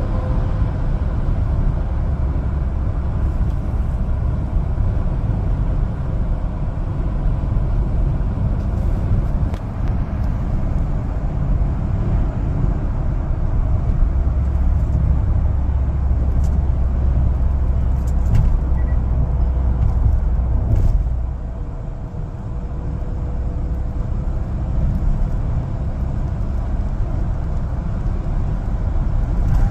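One-ton LPG cargo truck driving: a steady low engine and road rumble that grows heavier about halfway through, then eases off about two-thirds of the way in.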